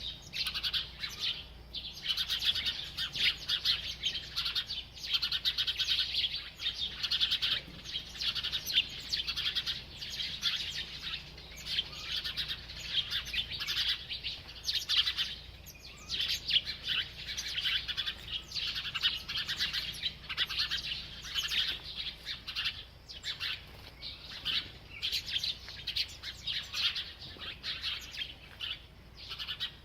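A bird chirping rapidly and almost without pause, a busy stream of high-pitched chirps with only brief breaks.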